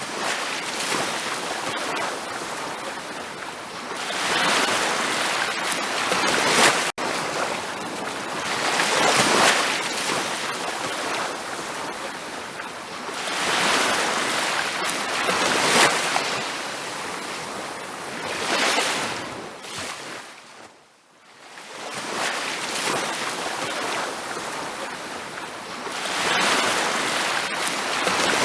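Ocean waves washing onto a beach, the surf hiss swelling and falling back in surges every few seconds, with one deeper lull about three-quarters of the way through.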